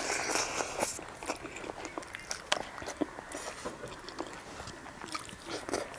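A person eating rice and stinging-nettle soup by hand, chewing with many small mouth clicks. A louder hiss-like burst comes in the first second.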